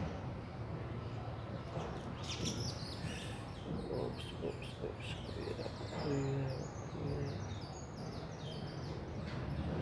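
Birds chirping, many short high calls from about two seconds in, over a steady background noise.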